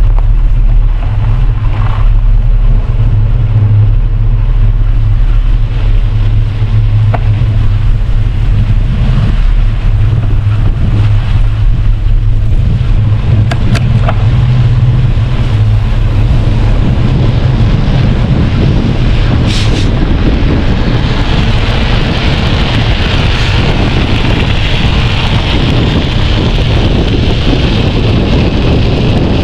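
Wind buffeting the microphone of a camera on a moving bicycle, a steady low rumble; about two-thirds of the way through a brighter hiss joins it.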